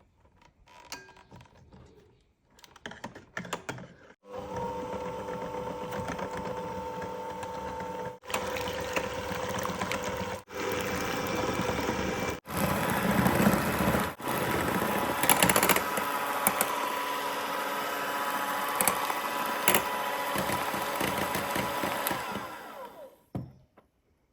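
Small electric kitchen appliance motor running at a steady speed. It starts about four seconds in, drops out briefly a few times, and stops near the end.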